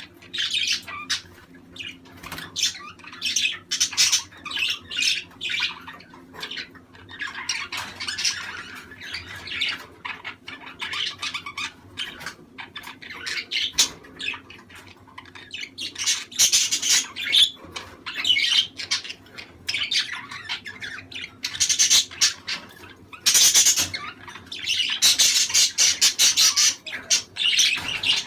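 Budgerigars chattering, chirping and squawking in quick, overlapping bursts with hardly a pause.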